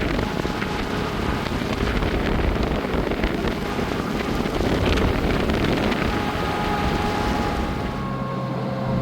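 Wind buffeting the microphone, a loud rushing rumble. Near the end it eases and a steady low hum comes through.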